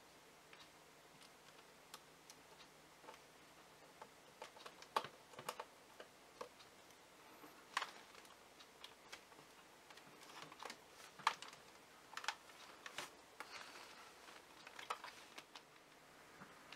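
Irregular light plastic clicks and taps from a Dyson V6 cordless vacuum's battery pack being handled, pulled off and pressed back against the handle grip, coming in small clusters.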